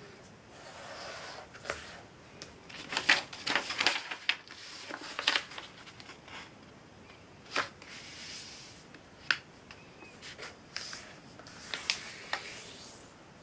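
A sheet of paper being handled, folded and creased by hand: irregular crisp rustles and snaps, busiest a few seconds in, then a few single sharp crackles spaced out later.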